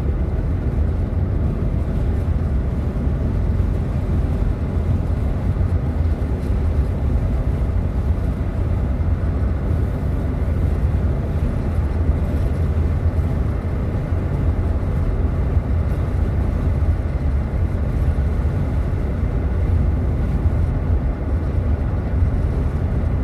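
Steady low road and engine rumble inside a moving vehicle's cabin, even throughout, with no sudden events.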